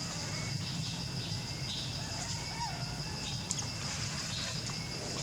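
Outdoor ambience: a steady, high insect drone over a low hum, with a few faint, short squeaky calls.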